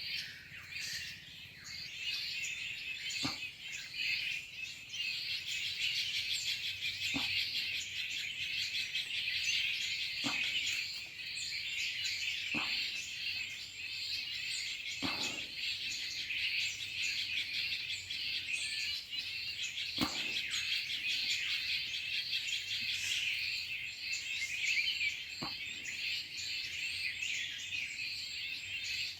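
Many small birds chirping and calling at once, their high calls overlapping in a dense, continuous chorus. A brief low knock sounds seven times, a few seconds apart.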